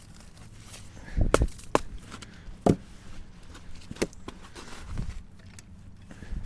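Several sharp, irregular knocks and clunks as a trolley jack is worked into place under a log.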